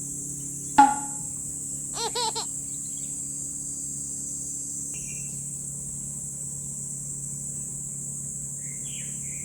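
Steady high-pitched chorus of insects such as crickets. A sharp click about a second in is the loudest sound, followed by three quick chirps a second later and a few faint bird chirps near the middle and end.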